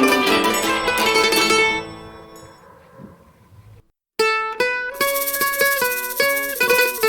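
Mandolin and octave mandolin music. A busy plucked passage dies away about two seconds in, there is a moment of silence at about four seconds, and then a new section starts with quick, evenly repeated plucked notes.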